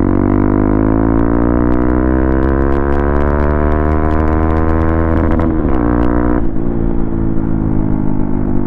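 Motorcycle engine running under way, its note climbing slowly as the revs rise, then changing abruptly about six and a half seconds in.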